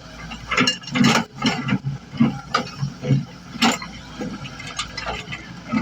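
Excavator's diesel engine running steadily, with irregular knocks and clatter over it.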